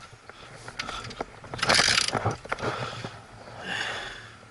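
Clicks, rattles and scraping from a motorcycle being held and shifted by hand, with a loud hissing burst about two seconds in.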